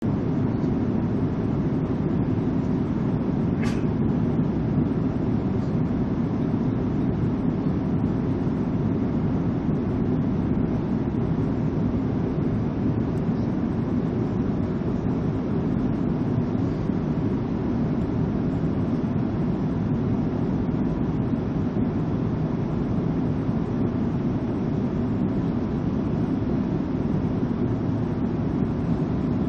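Airliner cabin ambience in flight: a steady low rush of engine and air noise, with one brief sharp click about four seconds in.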